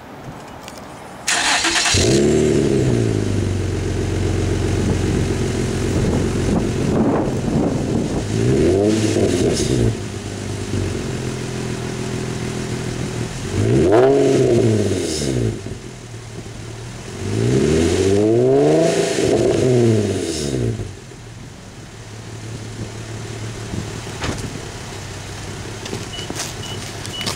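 Infiniti G35 coupe's 3.5-litre V6 through a Nismo cat-back exhaust with Fast Intentions resonated test pipes, warm start. A short crank about a second in catches into idle, then the engine is revved three times, the last rev the longest. The idle settles quieter near the end.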